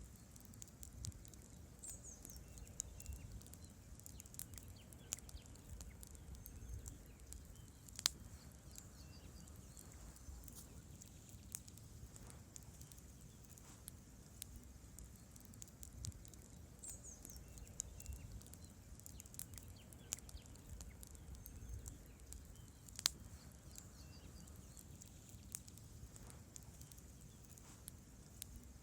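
Wood campfire burning: logs crackling with irregular sharp pops over a low rumble of the flames, two pops much louder than the rest. A faint steady high tone runs underneath, and a short high chirp comes twice.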